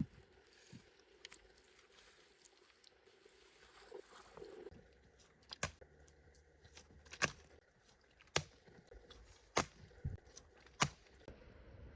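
Five sharp, evenly spaced strikes, about one every second and a bit, in the second half, with light rustling and small knocks before them.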